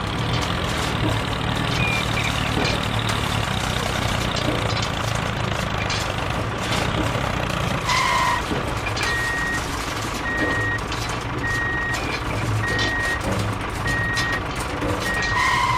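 A vehicle engine running steadily, with a short honk about eight seconds in and again at the end, and a beep repeating about once a second in between, like a reversing alarm.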